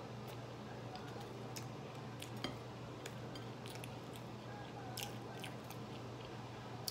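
A person chewing food with soft, scattered mouth clicks and smacks, over a steady low hum.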